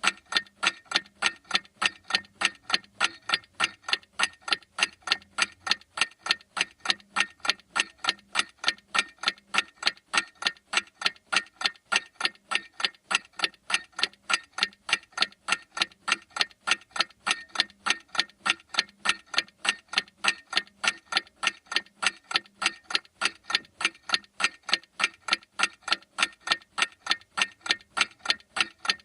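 Clock ticking steadily, a few sharp, even ticks a second.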